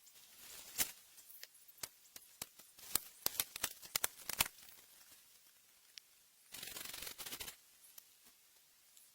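Close handling sounds: a run of sharp clicks and snaps, thickest about three to four seconds in, then a steady rustling or scraping sound lasting about a second.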